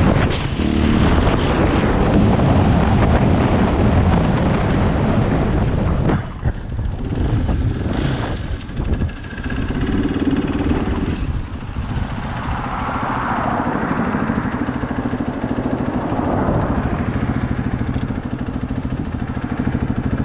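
KTM 500 EXC single-cylinder four-stroke engine running while riding, with wind rushing over the microphone. About six seconds in the sound drops and turns uneven, then settles to a steadier, quieter engine note.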